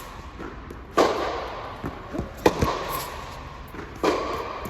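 Tennis rally: a ball struck by racquets three times, about a second and a half apart, each hit echoing briefly, with lighter ball bounces on the court between the hits.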